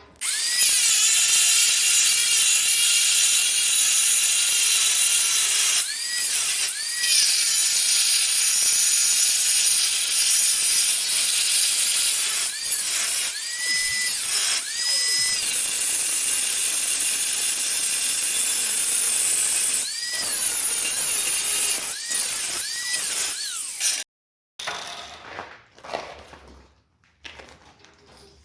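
Electric angle grinder working steel, a loud high-pitched grinding hiss over the motor's whine. The whine sags in pitch and recovers several times as the tool is pressed in. The grinder stops about 24 seconds in, followed by a few light knocks.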